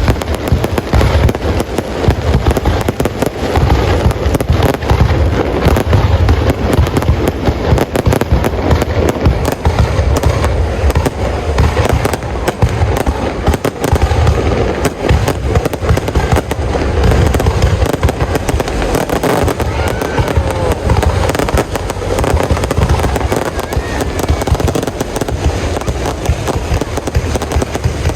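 Fireworks display: a continuous barrage of rapid bangs and crackling over deep, rolling booms.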